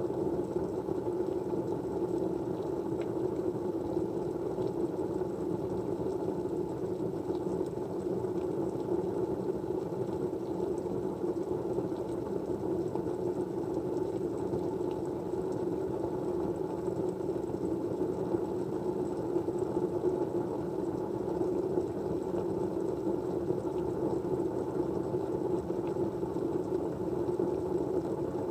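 Steady low rushing background noise, even and unchanging, like a white-noise ambience track.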